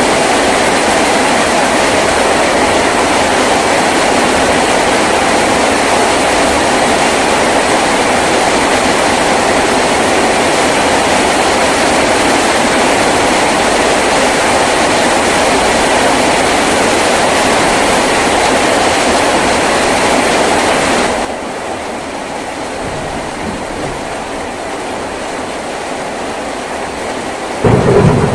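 Heavy rain drumming on a tin roof, a dense steady rush that drops abruptly to a quieter downpour about two-thirds of the way through. Near the end a loud, low rumble of thunder breaks in over the rain.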